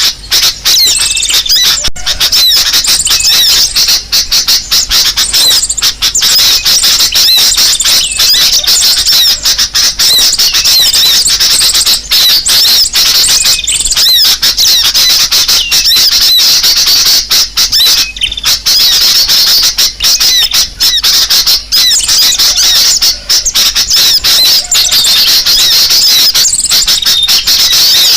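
Bird-lure recording of sunbird calls mixed with bulbul calls: dense, loud, high-pitched chirping and twittering that runs on without a break.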